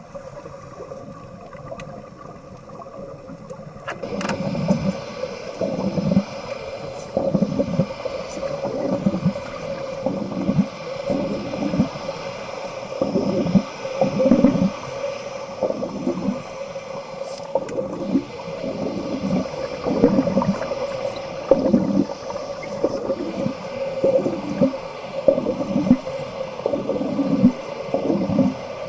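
Underwater wet welding: the arc strikes suddenly about four seconds in, then runs with a steady hum and a constant gurgling of gas bubbles rising about once a second.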